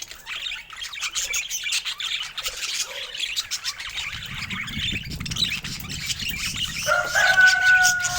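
Budgerigars chattering and chirping continuously in a fast, busy warble. About halfway a low rumble comes in, and near the end a loud, steady held tone that slides slightly downward cuts in over the chatter.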